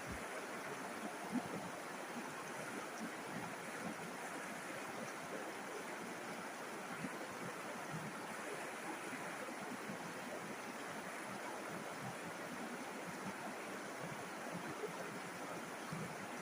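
River water flowing steadily, an even, unbroken rush of water noise.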